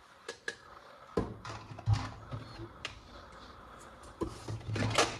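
Plastic toy weapon parts being handled: a string of irregular clicks and knocks, the loudest about two seconds in and near the end.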